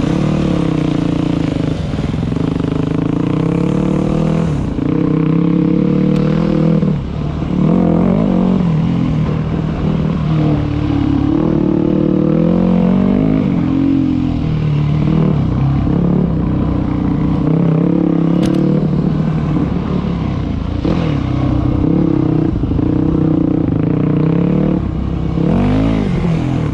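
Dirt bike engine under way, its pitch rising and falling over and over as the throttle is opened and closed, with a short drop in loudness about seven seconds in.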